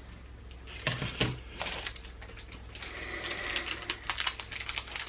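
Trading cards being handled and flipped through by hand: a quick run of light clicks and rustles from the card edges, with a couple of soft knocks about a second in.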